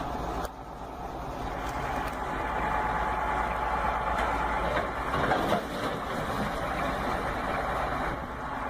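A heavy vehicle's engine running steadily, a continuous low drone.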